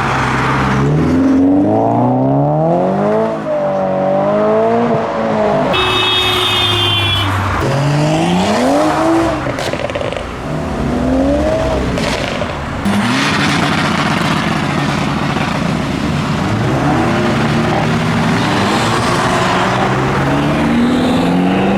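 Modified cars pulling away one after another, engines revving up and falling back through the gears. A brief high-pitched squeal about six seconds in.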